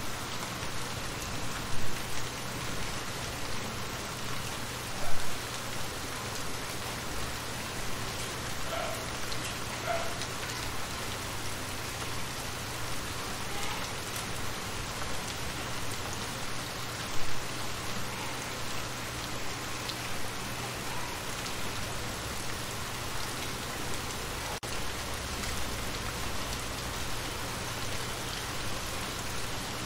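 Rain falling on shallow water: a steady patter of drops striking the surface, with a few brief louder spots.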